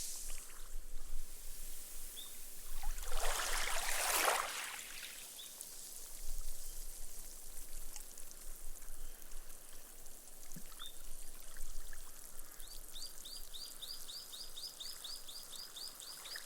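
Small waves lapping on a sand beach: one wave washes in and drains away about three to five seconds in, over a steady fizz of foam soaking into the sand. Near the end a rapid trill of short high chirps, about six a second, begins.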